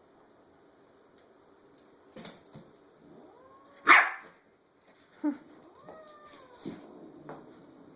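Domestic cat caterwauling at a pestering puppy: drawn-out yowls that bend up and down in pitch, with one loud sudden outburst about four seconds in. A few short knocks from the scuffle. It is the sound of an annoyed cat warning the puppy off.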